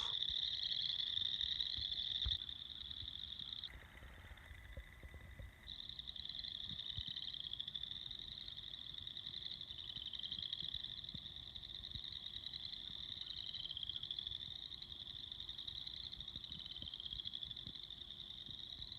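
Chorus of tree frogs calling, a steady mass of overlapping pulsed trills that each rise slightly in pitch, briefly quieter a few seconds in.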